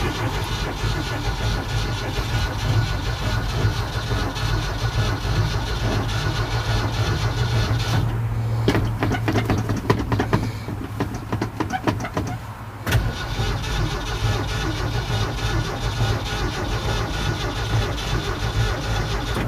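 1969 Ford F-250's 300 inline-six being cranked over by the starter without catching, with a short break about 13 seconds in. After two months of sitting, the carburettor float bowl is probably dry.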